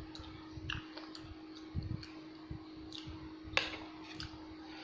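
Someone chewing sushi with the mouth closed: faint wet smacks and sharp clicks, a few of them spread out, the clearest about three and a half seconds in, over a steady low hum.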